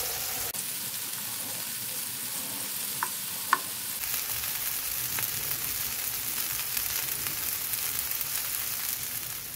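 Scallops searing in hot oil in a nonstick frying pan: a steady sizzle, with two short ticks about three seconds in.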